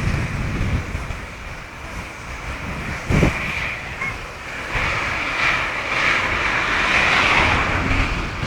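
Wind gusting against the microphone, with low buffeting thumps about three seconds in. From about five seconds in a steady rushing hiss builds.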